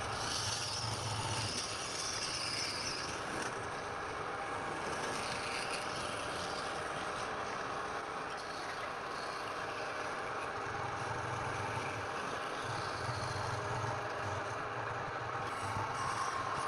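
Wood lathe running with a tool working the spinning wood: a steady rough noise with a low motor hum that comes and goes.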